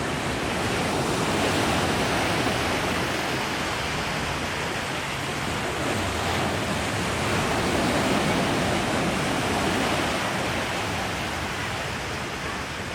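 Gulf of Mexico surf washing onto a sandy beach, a steady rush of breaking waves that swells and eases slowly.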